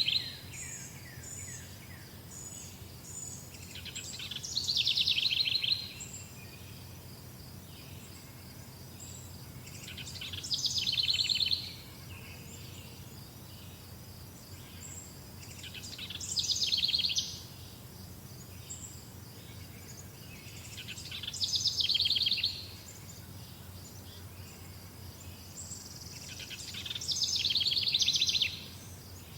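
A songbird singing the same rapid trilled phrase over and over, about every five to six seconds; each phrase swells for a second or two and then stops abruptly, with softer high chirps in between. A faint steady low hum runs underneath.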